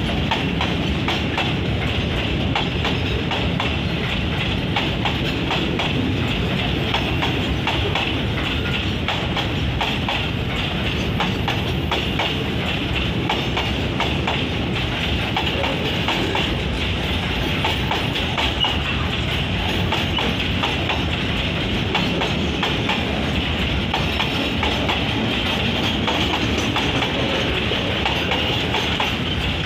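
Container freight train's flat wagons rolling past at a steady speed: a continuous rumble of wheels on rail, with rapid clattering clicks.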